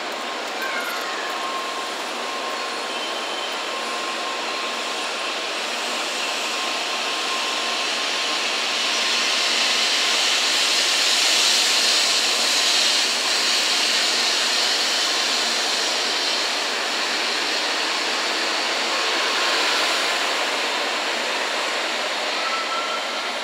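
An N700A-series Shinkansen train pulling out of the station, its cars running past close by as it gathers speed. It makes a steady rushing noise that grows to its loudest about halfway through, then eases slightly.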